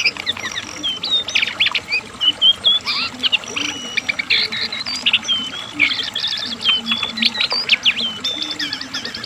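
A brown cingcoang (jongkangan) singing in full voice: a continuous, rapid stream of varied short chirps, slurred whistles and rasping notes with no pauses.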